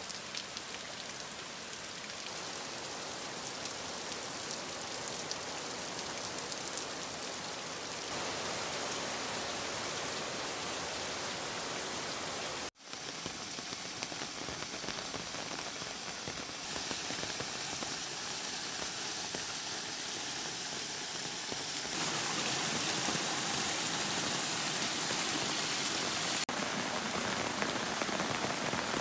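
Heavy rain falling in a steady hiss, with a brief dropout about halfway through.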